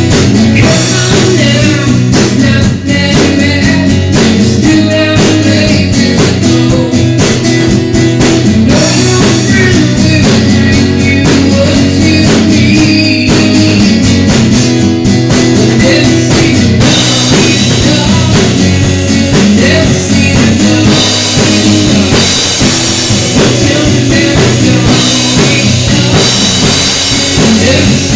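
Instrumental break of a rock-blues song: guitar over a drum kit, with the cymbals and high end getting busier about halfway through.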